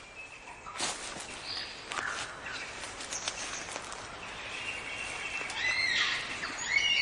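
Forest birdsong: several birds calling at once, with overlapping whistles, chirps and gliding notes over a steady hiss, growing louder and busier toward the end.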